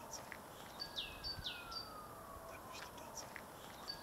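Faint woodland birdsong over a low hiss: about a second in a bird gives two quick falling notes over a long, slowly falling whistle, then a few short chirps near the end.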